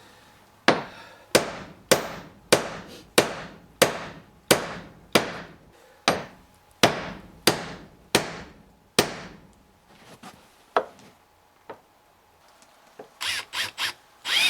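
Hammer blows on wood, about thirteen steady strikes less than a second apart, each ringing briefly, as a hinge pin or nail is driven into a timber door. A few lighter knocks follow, then a quick run of four short noisy bursts near the end.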